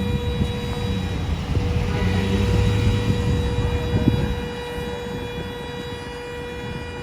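Vehicle driving noise as picked up by a dashcam: a low road-and-engine rumble that eases after about four seconds, under a steady high-pitched electrical whine, with a single sharp knock about four seconds in.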